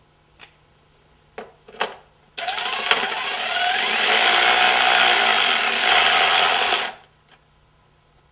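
Cordless power tool with a rapid hammering action, such as an impact driver, backing out a 10 mm fastener: a few light clicks, then one loud burst of running for about four and a half seconds that cuts off.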